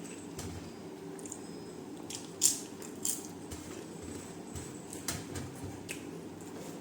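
Close-up eating sounds: chewing with wet mouth smacks and a few sharp clicks, the loudest about two and a half seconds in, over a steady low hum.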